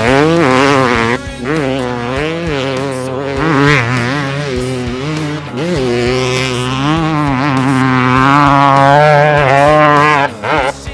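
Dirt bike engine revving, its pitch rising and falling with the throttle, under background music.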